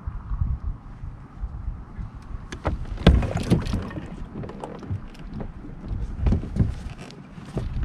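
Irregular knocks, bumps and scrapes on a plastic fishing kayak and the gear aboard it, over low, uneven thumping. The knocks come thickest about two and a half to four seconds in.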